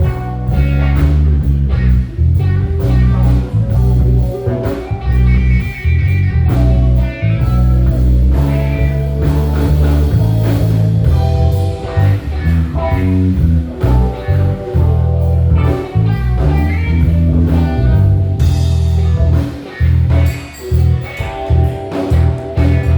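Live band playing an instrumental passage: guitar over a heavy bass line, drums and keys, with a blues-rock feel.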